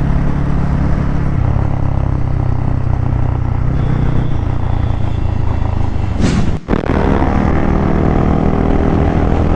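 Motorcycle engine running steadily while riding, under a steady rush of noise. The sound drops out for a moment about two-thirds of the way in, then the engine comes back with more overtones.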